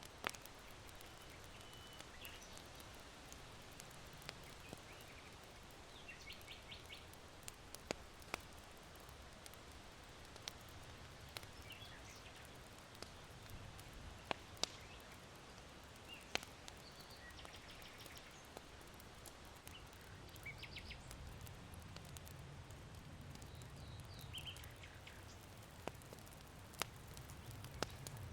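Charcoal fire in an irori hearth crackling quietly, with sharp pops scattered through, the loudest about 14 to 16 seconds in and near the end. Small birds chirp in short trills now and then, over a low rumble of wind.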